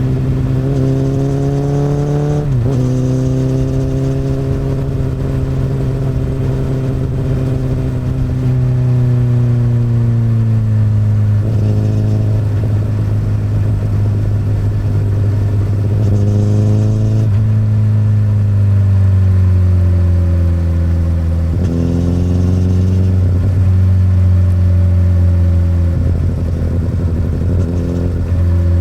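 Honda CBR1000RR SC59 inline-four engine running through an Akrapovic exhaust while riding. The engine note rises and falls with the throttle and jumps abruptly in pitch about five times.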